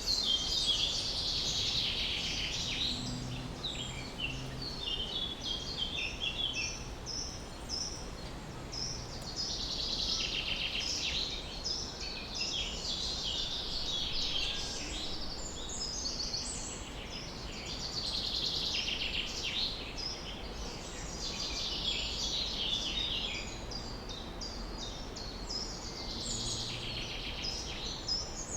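Songbirds singing in repeated bursts of rapid, high chirps every few seconds, over a low, steady outdoor background rumble.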